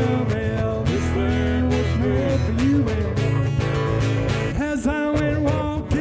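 Live country-style music with guitar, a sustained melody line bending in pitch over a steady strummed accompaniment.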